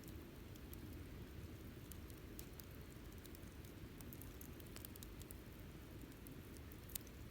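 Wood campfire crackling softly: scattered small pops and snaps over a low steady rumble of the burning fire, with one louder pop near the end.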